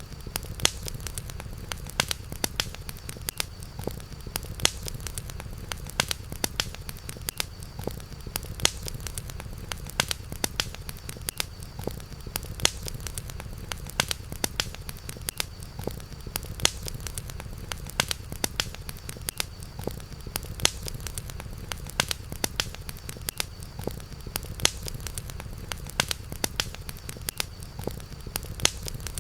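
Campfire burning with dense, irregular crackles and sharp pops over a steady low rumble, with a faint steady high tone in the background.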